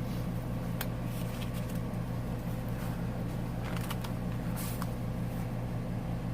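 Steady low hum of room background, with a few faint rustles and taps from paper being handled, about one second in and again near the middle.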